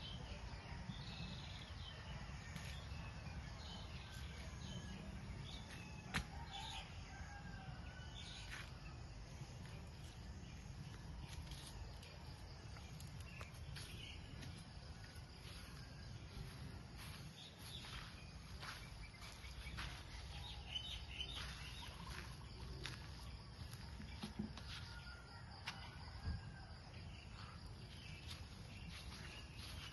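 Farm fowl calling faintly now and then, with scattered short calls and a few clicks over a steady low rumble.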